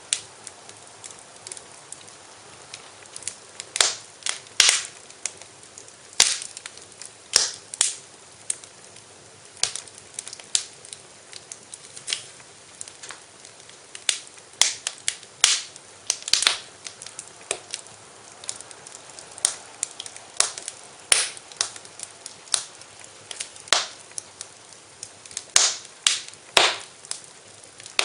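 Wood fire in a fireplace crackling, with irregular sharp pops and snaps over a steady soft hiss.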